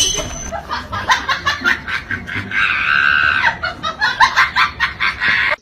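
A person laughing hard in rapid, uneven bursts, with a high-pitched held shriek about two and a half seconds in; the sound cuts off abruptly at the end.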